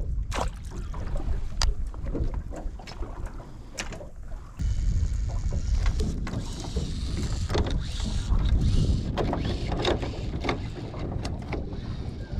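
Noise aboard a small fishing boat at sea: a low, unpitched rumble with scattered knocks and rattles, growing louder with an added hiss about four and a half seconds in.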